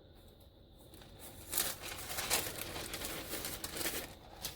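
Paper rustling and crinkling as journal ephemera and old book pages are handled and turned over, starting about a second in and stopping shortly before the end.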